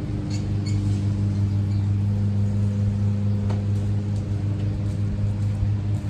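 A steady machine hum, even in pitch throughout, with a few faint clicks over it.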